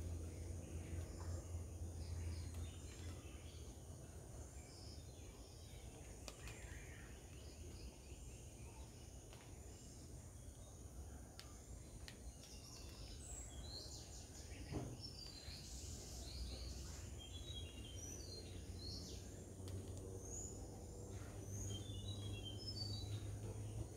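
Quiet ambience with a steady low hum and scattered short, high bird chirps, mostly in the second half.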